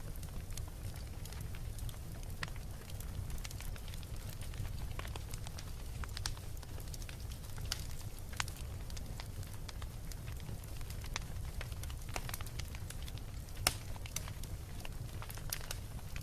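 Beach bonfire crackling, with irregular sharp pops of burning wood and one louder pop late on, over a steady low rumble.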